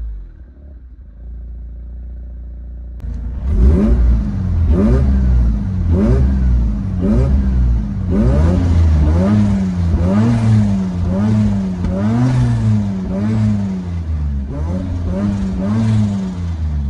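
Mazda RX-7 FD3S's twin-turbo 13B rotary engine, breathing through an RE Amemiya twin dolphin-tail muffler, idles steadily for about three seconds. Then it is blipped over and over, the revs rising and falling about once a second.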